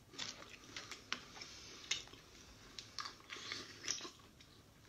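Close-miked chewing of a mouthful of cooked seafood: irregular, wet crunches and mouth clicks, with a few sharper crunches along the way.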